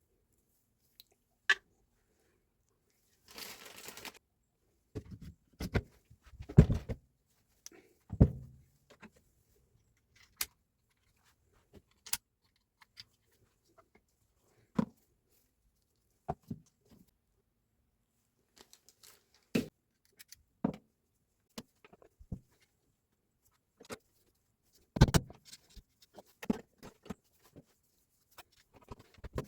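Scattered knocks and clicks of parts and tools being handled on a workbench, with a short burst of rustling or scraping about three seconds in and a quick cluster of knocks near the end.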